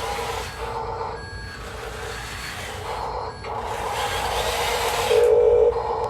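Scale RC construction machines at work: small electric motors and pumps whining steadily, with gritty scraping from moving soil that swells and fades. About five seconds in, a louder, pulsing beep-like tone sounds for about half a second.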